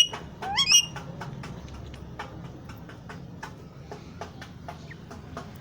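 A pet parrot gives one short call with quick pitch sweeps about half a second in. After that there are only scattered faint clicks and taps.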